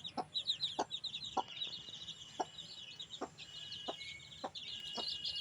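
A group of young chickens peeping and chirping in a steady high chorus, with a soft click every half-second to second.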